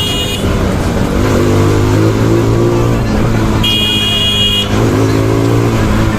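Bajaj Pulsar NS200's single-cylinder engine running under way, its pitch rising as it accelerates about a second in and again near the end. A horn beeps briefly at the start and again for about a second midway.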